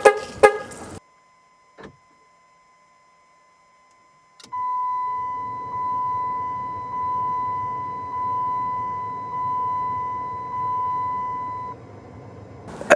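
A click, then a car's electronic warning chime dings steadily about six times, a little over a second apart, and stops. It sounds while the newly installed remote start system is being tried, just before the engine cranks.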